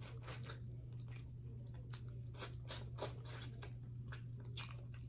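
A person chewing and biting meat held in the fingers, close to the microphone: irregular mouth clicks and smacks, several a second, over a steady low hum.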